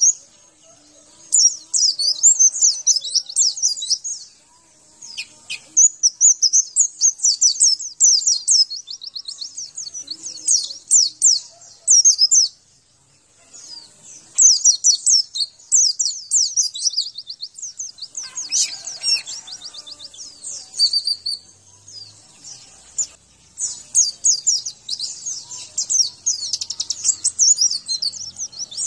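White-eye (pleci) song: rapid, high-pitched twittering phrases a few seconds long with short breaks between them. It is a masteran recording, used to get caged birds to answer and sing.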